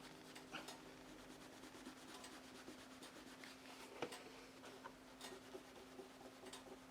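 Faint scattered clicks and rubbing of small handling noises over a steady low hum, with one sharper click about four seconds in.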